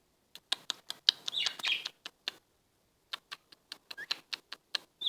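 Pet parrot making soft chirps and a few short rising squeaks, among a rapid run of sharp clicks.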